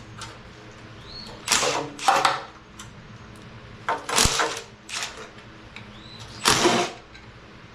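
Five short bursts of tool noise as bolts are worked loose during teardown of a Chevy 350 engine: two close together about one and a half seconds in, two more around four to five seconds, and the last near the end.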